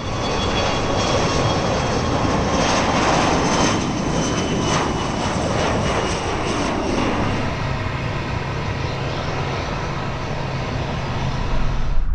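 A fixed-wing aircraft's engines running loudly, with a high turbine whine. Its pitch falls over a few seconds near the middle, as the aircraft passes.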